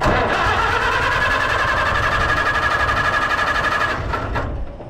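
Allis-Chalmers WD45 tractor engine being cranked by its electric starter for about four seconds, with the starter whining and an even, fast pulse of the engine turning over, then stopping without firing. This is a no-start, likely from no spark at the ignition.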